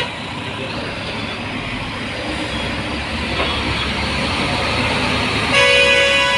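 Steady rumble of a truck's engine and road noise while driving in traffic, growing slowly louder. Near the end a vehicle horn starts and holds.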